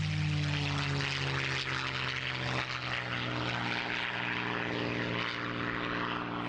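Propeller aircraft flying past at an airshow: a loud, steady engine drone whose pitch dips slightly early on and then holds.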